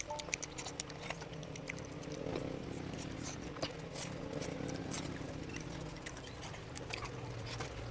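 Close-up eating sounds: chewing and lip smacking, with many small irregular wet clicks over a low steady hum.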